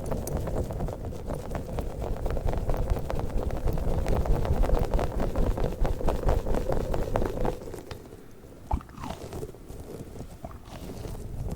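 Squishy rubber balls being squeezed and handled, giving a dense run of rapid crackling clicks that thins out to a few scattered clicks about two-thirds of the way in, with one sharp click near the end.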